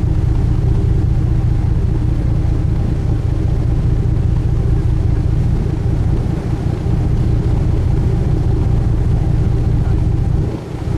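Sightseeing cruise ship's engine running steadily under way, a loud low hum heard on board, with a brief dip in loudness near the end.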